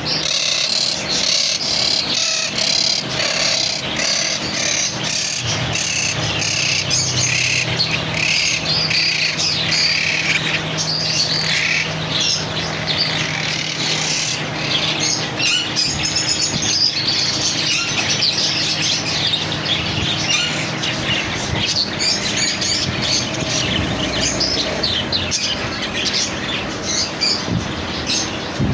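Many birds chirping and tweeting at once, a dense, unbroken chatter of high calls, over a low steady hum.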